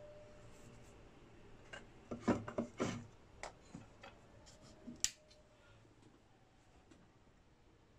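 Short scratchy rubbing and clicking sounds of small objects handled on a workbench, clustered about two to three seconds in, with one sharp click about five seconds in.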